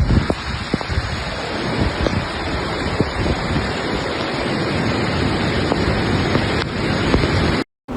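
Heavy rain pouring steadily, a dense hiss with scattered faint drop ticks. The sound cuts out completely for a moment near the end.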